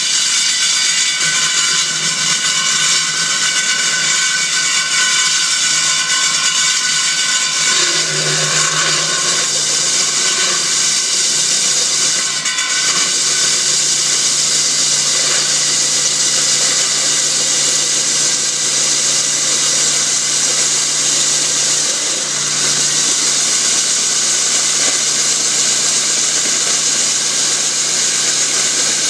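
Husqvarna DM 340 electric core drill running steadily while its diamond bit cuts a 6-inch hole in concrete, a continuous high whine over a dense hiss.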